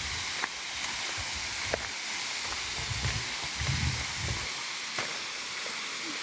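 Steady rushing hiss of a small waterfall, with a few soft low thumps about three to four seconds in and some faint clicks.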